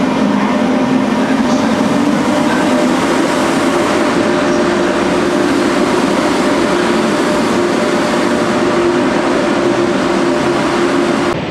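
Frecciarossa high-speed electric train moving along the station track, a steady loud rolling rush with a motor whine that slowly rises in pitch.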